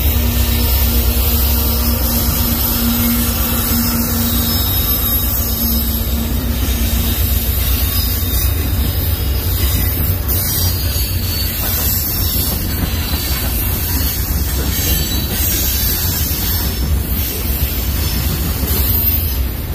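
Freight train cars, autoracks and boxcars, rolling past at close range: a steady low rumble of steel wheels on rail.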